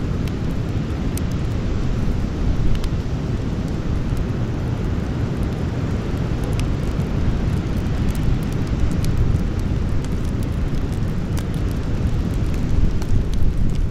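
Campfire burning, with scattered sharp crackles and pops of the wood over a constant low rumble.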